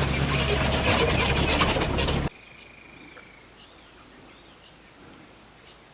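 A motor running loudly and steadily, cut off abruptly about two seconds in. A quiet background follows, with a short high chirp repeating about once a second.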